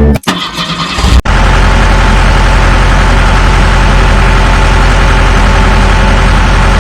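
A vehicle engine idling steadily, cutting in abruptly about a second in after a brief quieter stretch.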